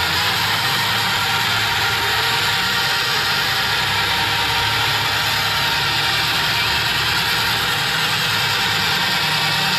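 Banger race cars' engines running together with a steady, continuous noise and no distinct revs or crashes.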